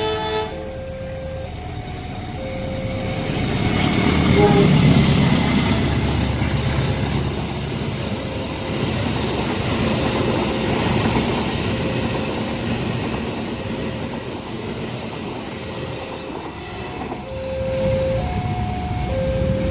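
A train passing at speed, its rumble building to its loudest about four to five seconds in and then running on. Short electronic beeps at two alternating pitches repeat throughout.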